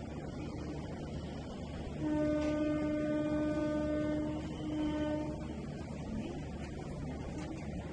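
Train horn sounding one long blast about two seconds in, then a shorter second blast, over the steady low rumble of the train running.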